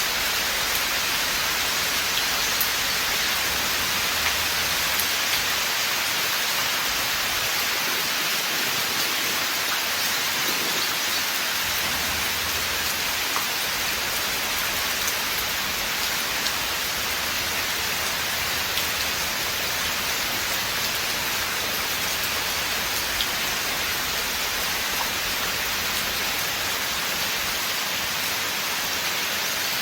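Steady rain falling in a forest, an even hiss of rainfall with a few separate drops ticking through it.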